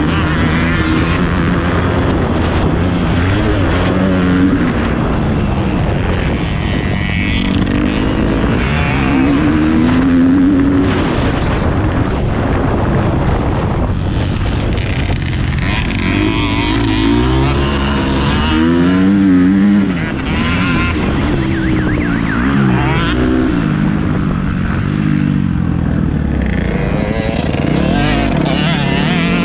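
Motocross dirt bike engine being ridden hard, its pitch climbing and dropping again and again as the throttle is opened and shut.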